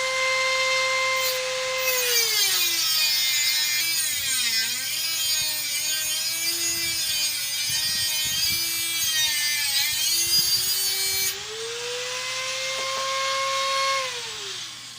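Dremel-type rotary tool with a cut-off wheel cutting 1/4-inch steel all-thread rod. Its high motor whine drops in pitch and a grinding hiss comes in as the wheel bites for about ten seconds, then the whine rises again when the wheel comes free. Near the end it falls in pitch as the tool is switched off and spins down.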